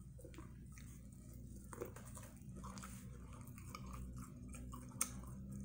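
A bite taken into breaded fried corn on the cob, then close-up chewing, faint with scattered small clicks. A single sharp click near the end.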